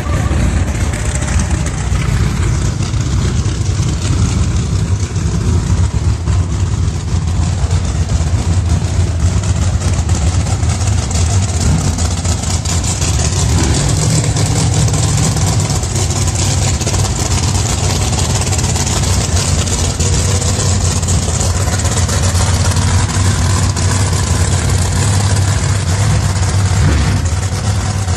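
No-prep drag race car engine idling loudly and steadily at the starting line.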